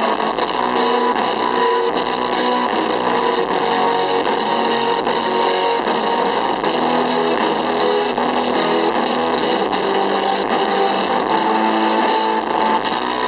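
A live rock band playing loudly, with electric guitar and drums.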